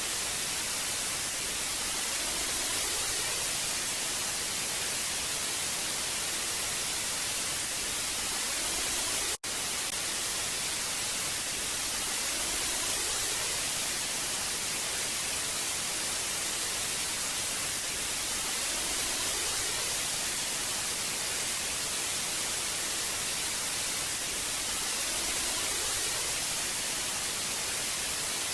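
Old analog TV static: a steady hiss, strongest in the high end, that drops out for an instant about nine seconds in.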